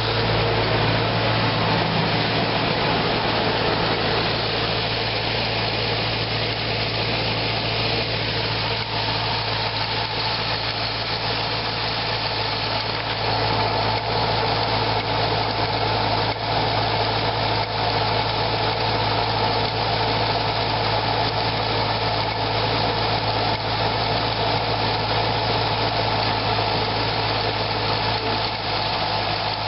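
Corvette engine idling steadily with its freshly replaced accessory belts, running evenly with no belt squeak.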